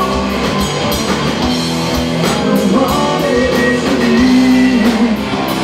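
Live rock band playing, with guitar and drum kit, and sustained notes that bend in pitch.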